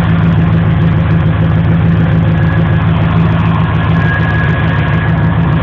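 Truck engine idling steadily, loud and even, with no revving.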